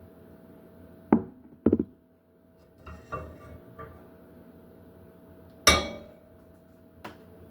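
Kitchen cookware clatter: hard knocks of pans and utensils. There are two sharp knocks in the first two seconds, a short rattle of clinks in the middle, and the loudest bang about two-thirds of the way through. A faint steady hum runs underneath.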